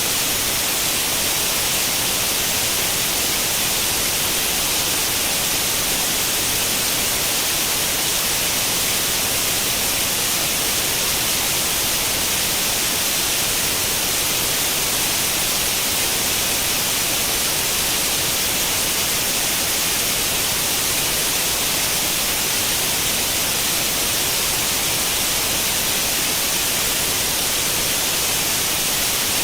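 Steady, unchanging hiss of white noise, the static of an old tube television tuned to no channel. Strongest in the upper frequencies.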